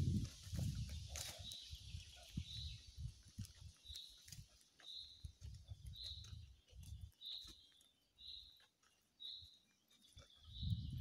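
A bird repeating a single short, high call about once a second. Beneath it are irregular low thuds of footsteps on a dirt path, loudest at the start and again near the end.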